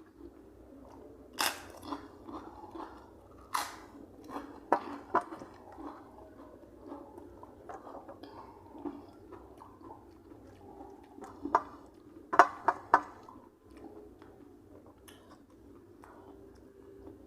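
A person chewing and eating close to the microphone, with a few sharp clicks or crunches scattered through, the loudest a quick run of three about twelve seconds in.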